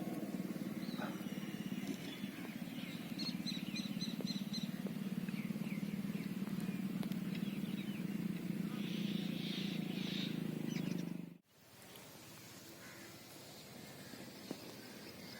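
Outdoor ambience: a steady low hum with birds chirping over it, including a quick run of five high chirps. About eleven seconds in it cuts off abruptly to a quieter background with faint bird calls.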